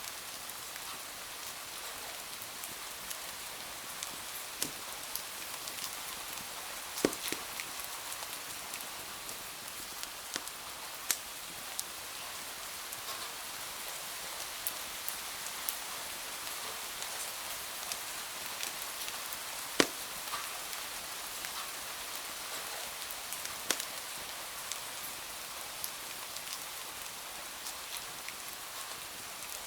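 Rain falling on a window mixed with a crackling wood fire: a steady hiss of rain with scattered sharp pops, the loudest about 7 and 20 seconds in.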